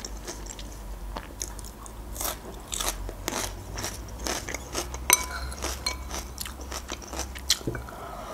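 Raw green bell pepper being bitten and chewed, with crisp crunches coming in an irregular run.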